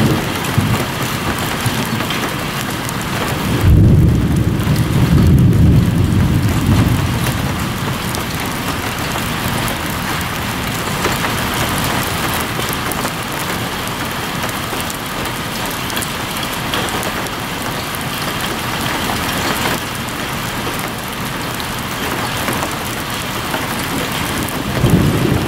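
Steady rain hissing throughout. About four seconds in, a low rumble swells for a few seconds.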